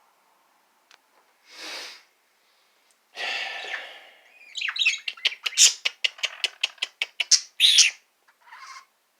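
Pet birds calling: a few short harsh squawks, then a rapid run of sharp chirps and clicks with a louder squawk near the end.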